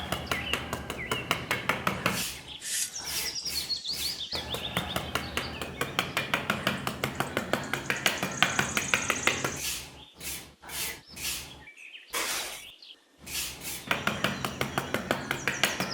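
Rapid, even strokes of hand work on a material, about five a second, pausing briefly a few times near the end, with birds chirping in the background.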